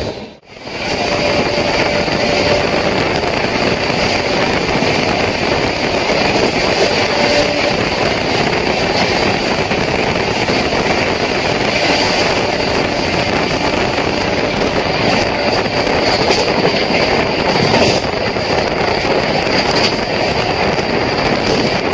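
Passenger train running at speed, heard on board: a loud, steady rushing and rumbling noise of the coach on the rails. The sound drops out briefly about half a second in.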